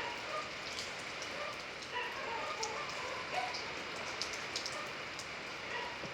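Steady rain falling, with many individual drops landing close by as sharp ticks and small plinks.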